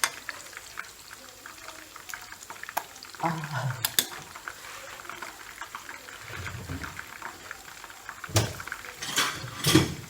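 Hot oil sizzling in a frying pan of fried chicken pieces, with sharp clicks and scrapes of a utensil against the pan as the pieces are lifted out; the loudest clatter comes near the end.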